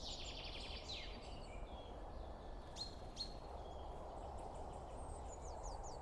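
Small songbirds singing and chirping, with rapid high trills and a run of quick falling notes near the end, over a steady low background hiss.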